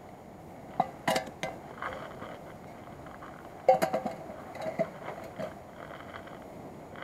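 Metal camp cookware clinking and knocking as it is handled: a few sharp ringing clinks about a second in, then a louder cluster of clinks near the middle and a couple more after.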